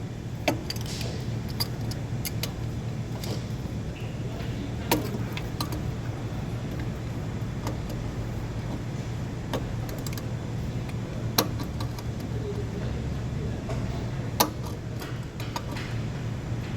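Metal tools and engine parts clinking and tapping at irregular intervals, with the sharpest clinks about five, eleven and fourteen seconds in, over a steady low hum.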